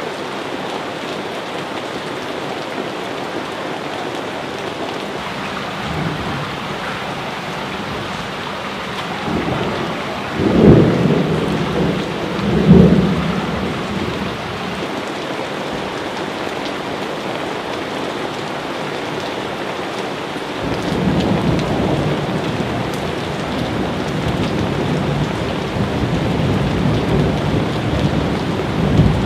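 Steady rain falling through a thunderstorm, with two loud peals of thunder about ten and thirteen seconds in, then a long low rumble of thunder rolling on through the last third.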